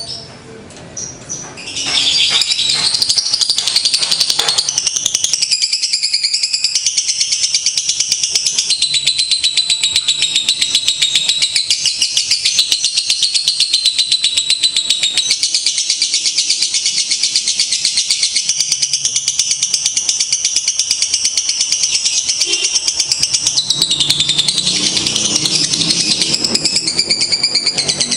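Lovebird singing a long, very fast, high-pitched chattering trill, loud and unbroken from about two seconds in.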